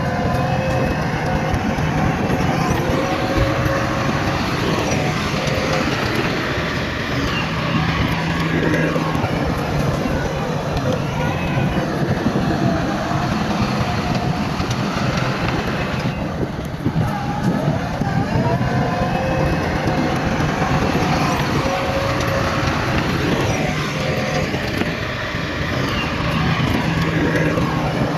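Diesel engines of heavy earthmoving machinery running steadily, with the engine note rising and falling now and then.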